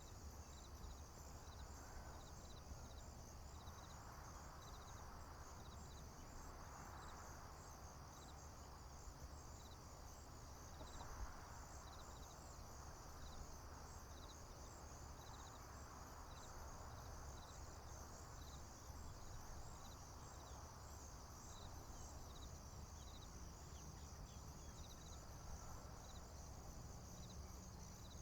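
Crickets and other field insects chirping faintly: a steady high trill, with a separate chirp repeating about once a second, over a low steady rumble.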